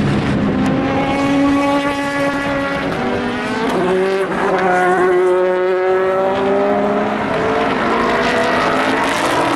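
Endurance race cars passing at trackside: several engines heard at once. One engine's pitch climbs as it accelerates, and about four seconds in another swells and then falls away as it goes by.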